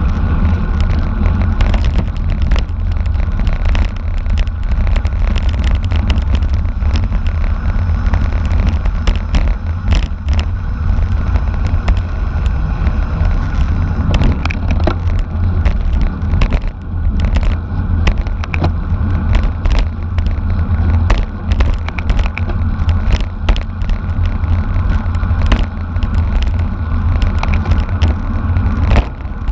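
Wind rumbling on the microphone of a camera riding along on a racing bicycle at speed, with road noise and frequent sharp clicks and rattles from the bike and its mount.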